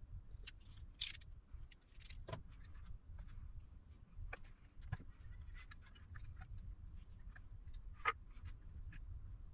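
Scattered small clicks and light metallic taps from tools and parts handled while a heatsink is taken off a circuit board, the sharpest about a second in and near the end, over a steady low hum.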